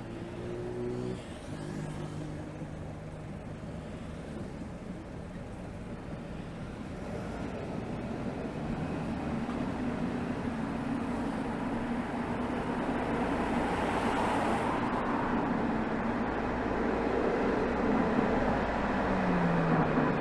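Exhaust of a BMW 320xd's 2.0-litre four-cylinder turbodiesel (B47D20) in city driving, growing steadily louder as the car picks up speed, with a falling engine note near the end.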